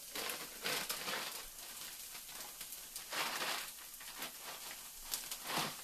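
Rice with peas and carrots frying in a pan on a gas burner: a faint, steady sizzle with a few louder crackles.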